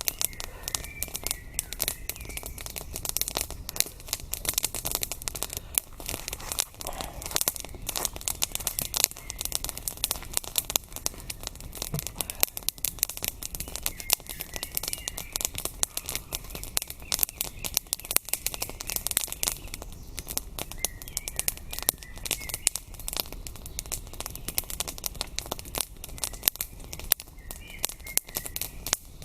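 Wood campfire crackling and popping in a close, irregular stream of sharp snaps. A bird chirps briefly a few times.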